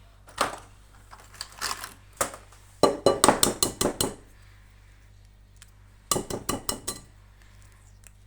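Utensil clinking against a bowl: a few single taps, then two quick runs of rapid clinks, each about a second long.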